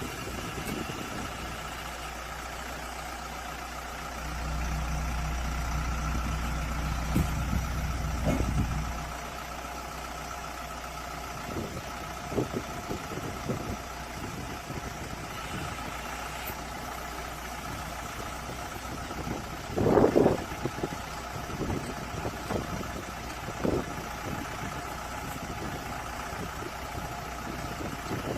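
Bus engine idling steadily, with a deeper low hum from about four to nine seconds in and scattered knocks, the loudest about twenty seconds in.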